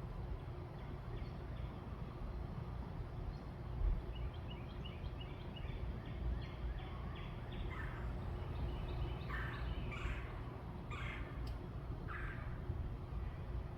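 Backyard birds calling over a steady low rumble: a quick run of short high notes, then four louder harsh calls about a second and a half apart.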